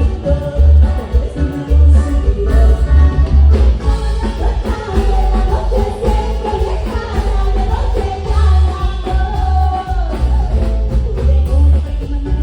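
A live band playing with a singer, the bass heavy and pulsing.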